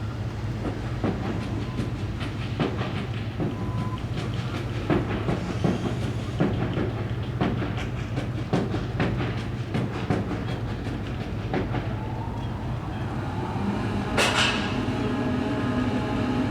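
Steady low hum of a departing car ferry, heard through a terminal window, with irregular sharp taps over it. About 14 s in comes a short hiss, followed by a steady pitched drone.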